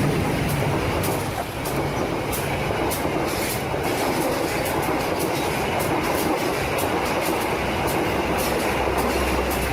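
Train running on its rails with a steady rumble and repeated wheel clicks, two or three a second.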